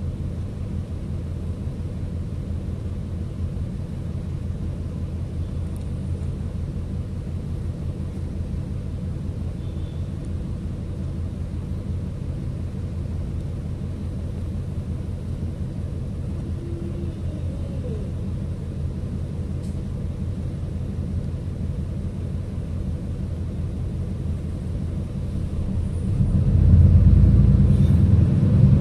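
City bus engine and drivetrain rumbling steadily, heard from inside the passenger cabin; the rumble grows clearly louder near the end.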